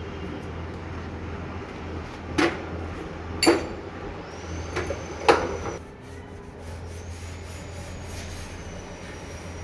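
Four sharp knocks, irregularly spaced, between about two and five and a half seconds in, over a steady low hum; a faint high-pitched whine runs through the second half.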